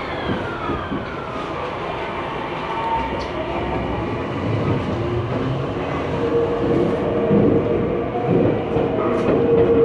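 A Tokyu Ikegami Line electric train running by, with a falling whine in the first couple of seconds. A steady high tone comes in about six seconds in and grows louder.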